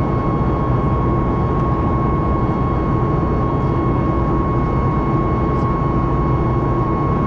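Boeing 737 MAX 8's CFM LEAP-1B jet engines running steadily, heard as a loud, even cabin rumble with a steady whine on top.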